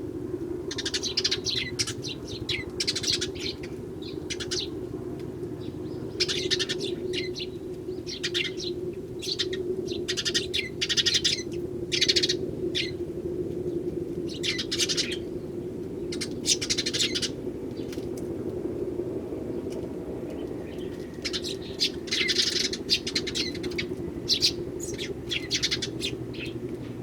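Eurasian tree sparrows chirping in repeated short bouts of quick, high chirps, over a steady low hum.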